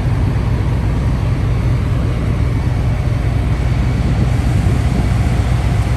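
Steady, loud low rumble with road and wind noise of a vehicle on the move. It starts and stops abruptly.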